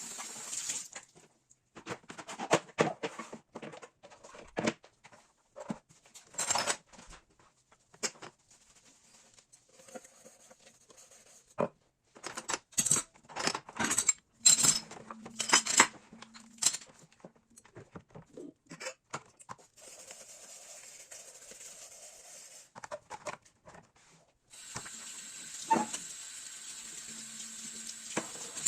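Dishes and kitchenware clattering and clinking as they are handled and set down, in irregular knocks. Near the end a steady hiss sets in.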